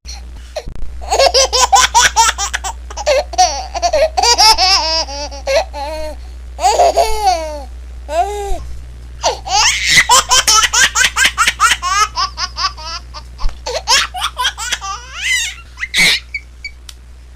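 A baby laughing, in runs of quick, high-pitched laugh bursts broken by short pauses.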